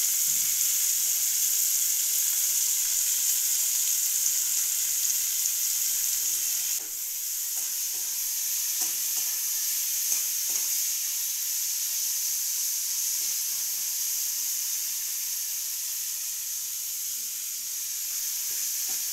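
Spiced potato sticks, green beans and tomato sizzling steadily in hot oil in a karahi, stirred with a spatula that knocks and scrapes against the pan now and then.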